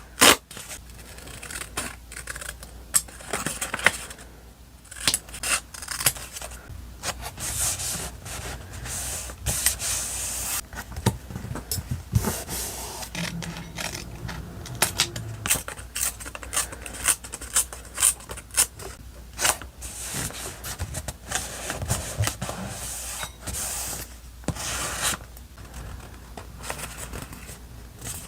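Paper and stickers handled close to the microphone: irregular rustling and scraping with many short clicks and taps.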